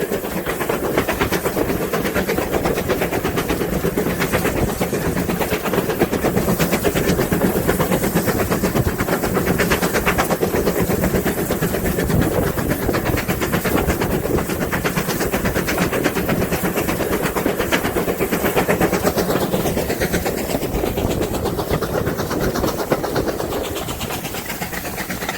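Heritage steam train running along the line, its carriage wheels clattering steadily over the rails, the noise growing quieter near the end.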